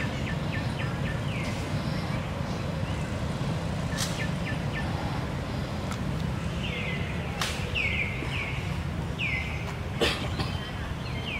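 A bird calling repeatedly, each call a short chirp that falls in pitch, coming in quick runs in the second half, over a steady low background rumble. A few sharp clicks stand out, the loudest about ten seconds in.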